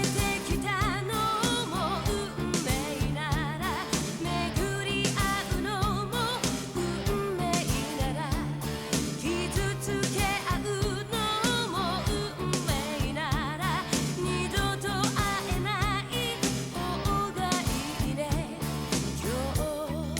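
A pop song: a singer's voice with vibrato over a band, with bass and a steady beat.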